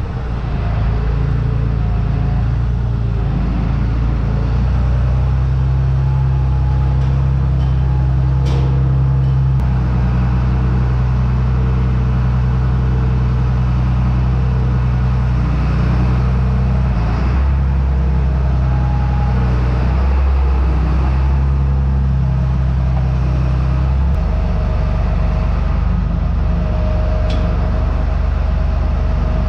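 Farm tractor engine running steadily as the tractor is maneuvered, its note dropping and shifting a couple of times; a steady whine comes in near the end.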